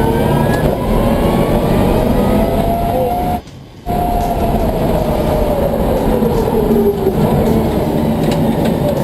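Electric drive motors of a converted 1995 BMW M3 race car whining under load, the whine climbing in pitch and later falling away, over a loud rushing noise. The sound drops out for about half a second partway through.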